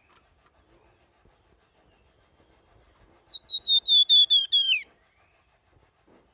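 Flamboyan songbird singing a fluting phrase: a quick run of about nine clear whistled notes in a second and a half, each slurring down, the last dropping well lower. The phrase starts about three seconds in.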